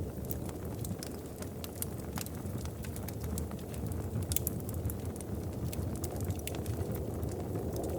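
Wood fire crackling in a fireplace: irregular sharp pops and snaps over a steady low rushing of the flames.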